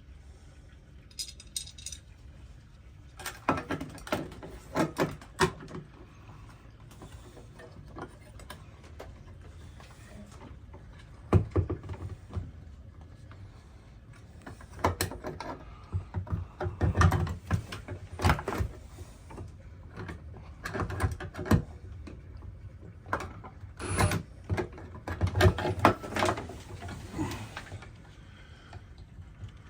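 Irregular clicks, taps and knocks of small screws, fixture parts and a hand tool being handled while a light fixture is screwed to its back plate, in scattered clusters with a few louder knocks.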